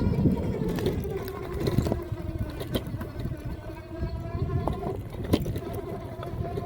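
Electric pit bike riding a bumpy dirt trail: the motor's whine drifts up and down in pitch with the throttle, over a low rumble of tyres and wind, with scattered sharp knocks and rattles as the bike hits bumps.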